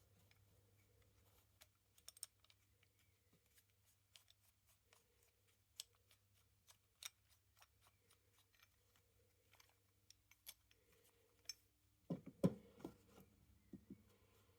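Quiet handling sounds: scattered light clicks and ticks, then a short cluster of louder knocks about twelve seconds in, over a faint steady hum.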